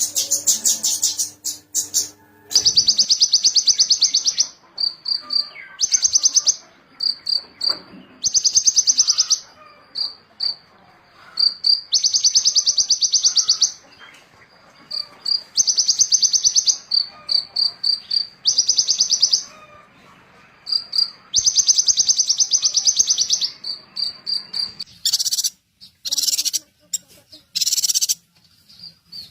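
A small songbird singing: long, fast, buzzy high trills repeated every few seconds, with short clear high notes in between.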